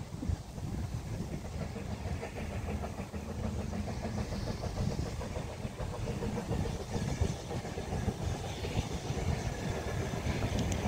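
Narrow-gauge steam train on the move: a steady rumble and rattle of the carriages running along the track.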